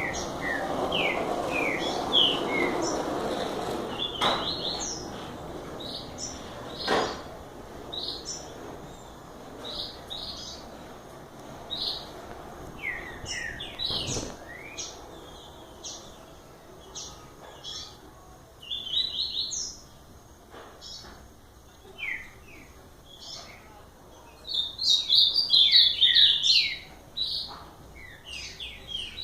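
Small songbirds chirping and calling: short high notes and quick sweeping phrases scattered throughout, with a dense, louder run of rapid notes about 25 seconds in. A few sharp clicks or knocks are heard among them.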